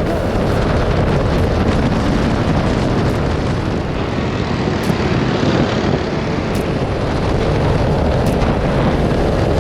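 Go-kart engine running steadily at speed, heard onboard with heavy wind rush over the microphone.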